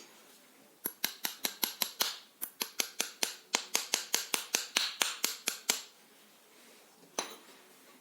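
A rapid series of sharp metallic clicks, about five a second for about five seconds, then a single click near the end.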